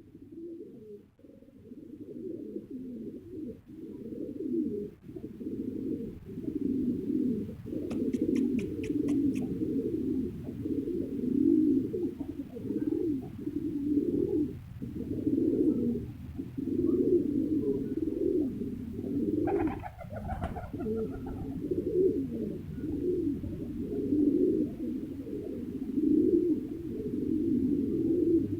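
Pigeons cooing, low coos following one another almost without a break. A quick run of about eight sharp ticks comes about a third of the way in, and a brief higher call about two-thirds of the way through.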